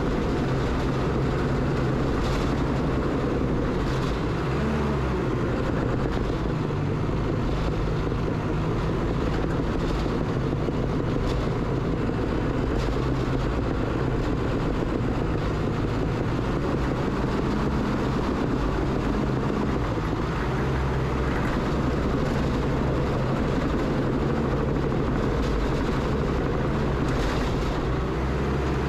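Diesel engine of a heavy earthmoving machine running steadily under load while it works dirt, with a few faint knocks.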